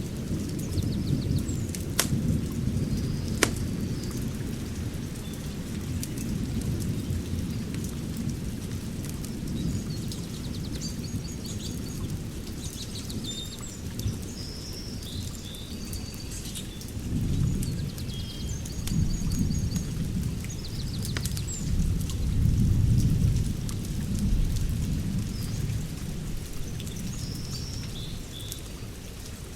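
Outdoor fire pit burning with a low rumble that swells several times and a few sharp pops about two and three and a half seconds in, while birds chirp high above.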